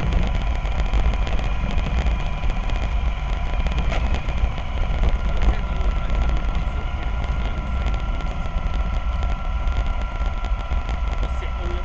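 Electric drive motor of a radio-controlled model double-decker bus running, with a steady thin whine and a second, higher whine that strengthens about halfway through, over a low rumble.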